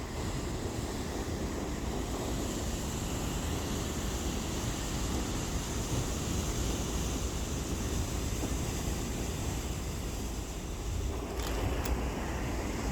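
Ocean surf washing in, with wind rumbling on the microphone.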